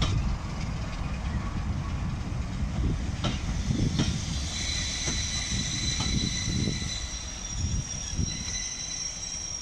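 Passenger coaches rolling slowly past with a steady rumble and occasional clicks of wheels over rail joints; from about halfway through, a high steady wheel squeal joins in.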